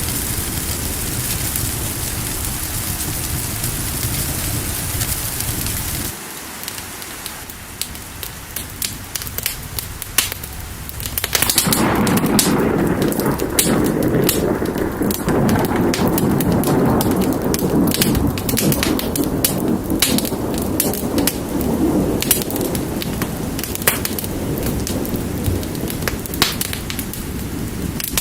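Steady rain for about six seconds, then it gives way abruptly to a crackling fire with sharp pops. About halfway through, a loud, lower rushing rumble of rain and thunder comes in and runs on under the crackling.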